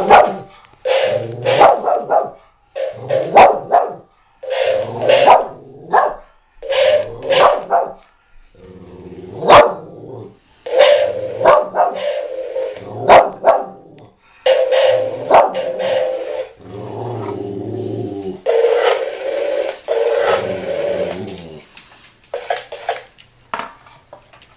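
Dog barking over and over in bouts, with short pauses between clusters of barks.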